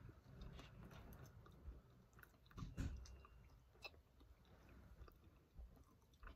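Faint chewing of soft, gooey Kororo cola-flavour gummy sweets, with small wet mouth clicks scattered throughout.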